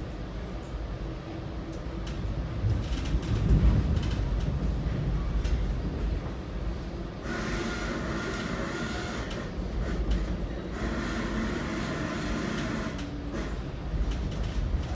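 Metra BNSF commuter train running along the track with a steady low rumble, broken by two stretches of louder, higher rushing noise from the rails partway through.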